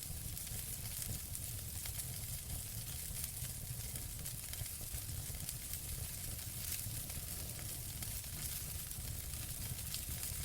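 Wood fire burning in a fireplace: a steady hiss and low rumble with scattered crackles and pops.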